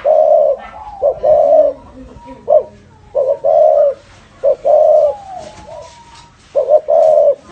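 Spotted dove cooing in the 'thổ rền' style. It repeats phrases made of a short note followed by a longer, rolling coo, about every one and a half seconds.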